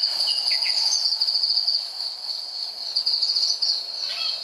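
Crickets trilling steadily at a high pitch, with a few short, faint chirps about half a second in and again near the end.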